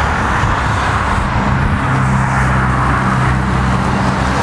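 Steady road traffic noise, with a low vehicle engine hum that comes in about a second in and holds for a few seconds.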